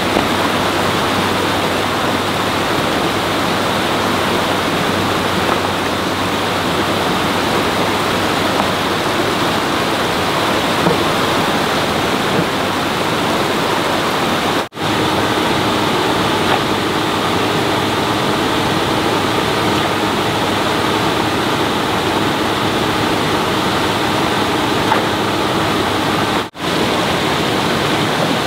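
Steady rushing of water, with faint low steady tones under it. The sound drops out briefly twice, about 15 and 26.5 seconds in.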